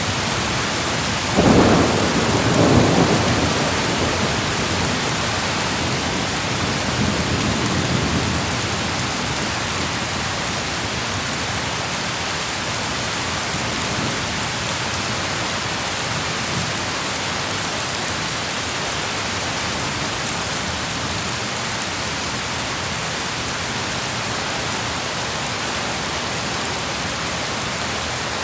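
Steady heavy rain with a thunderclap about a second and a half in, rumbling on for several seconds before fading back under the rain.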